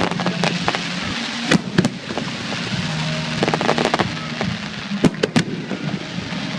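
Fireworks display: a run of sharp bangs from bursting shells, the loudest about one and a half seconds in and a cluster around five seconds, over a continuous crackle, with music playing underneath.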